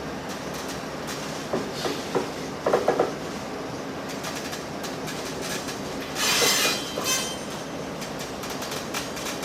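Limestone freight wagons rolling slowly, with a steady rumble and a few sharp metal clanks, and a short loud screech about six seconds in.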